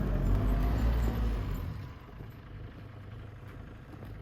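A vehicle engine running with a low rumble. It drops to a much quieter level about two seconds in.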